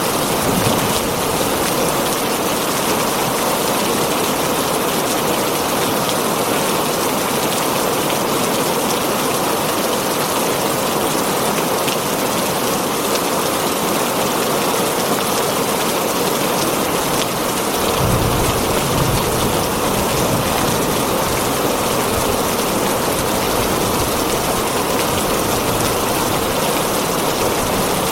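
Heavy rain falling on a tin roof, a steady dense hiss. About two-thirds of the way through, a low rumble comes in underneath and carries on.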